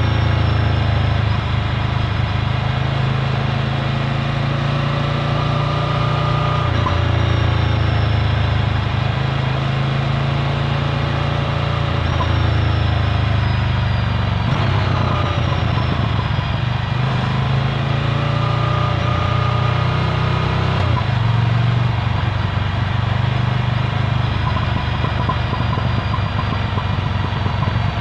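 Ducati Scrambler's air-cooled L-twin engine running through a Termignoni exhaust while riding. The note holds steady, changes abruptly about 7 and 21 seconds in, and dips in pitch then climbs again around the middle.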